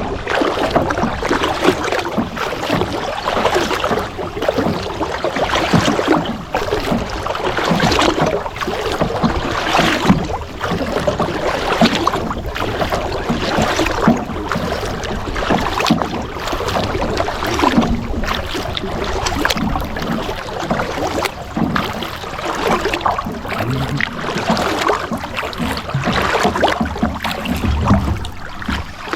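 Kayak paddle strokes splashing through the water in a steady, repeating rhythm.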